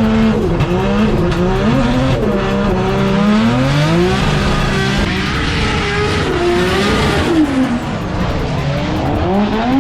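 Drift car engine revving hard, its pitch rising and falling again and again as the throttle is worked through a run, with tyres hissing on the wet track.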